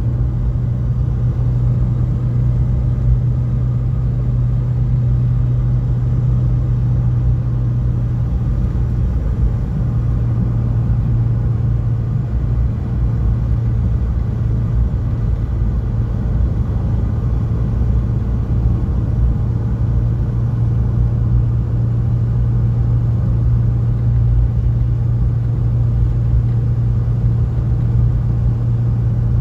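Renault 21's engine running steadily at constant revs, heard from inside the cabin with road and tyre rumble, as the car pulls up a long highway climb.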